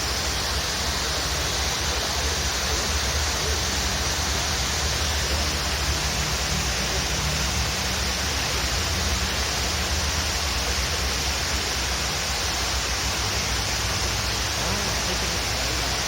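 Waterfall rushing: a steady, unbroken wash of falling water with a low rumble underneath.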